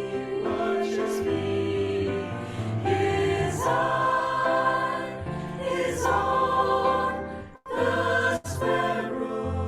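Choral music: a choir singing held notes, with the sound cutting out for a moment about three-quarters of the way through.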